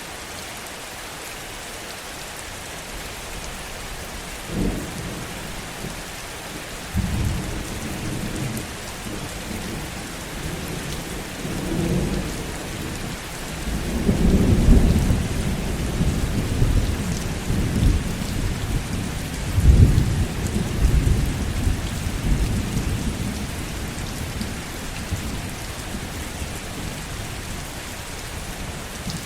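Heavy rain falling steadily, with a rolling rumble of thunder that begins a few seconds in, swells to its loudest about halfway through and dies away near the end.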